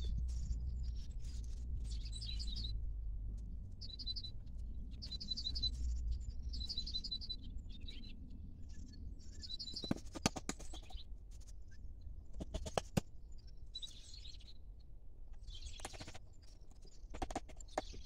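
Small birds chirping in short repeated phrases, with a low rumble underneath for the first half. A few clusters of sharp clicks come about halfway through and near the end.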